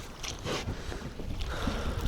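Choppy, wind-driven water slapping and washing against a small boat's hull, with wind buffeting the microphone and a few light knocks.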